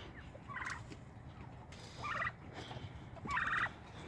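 Turkey gobbling three times, each gobble a short, rapid-pulsed call, about a second and a half apart.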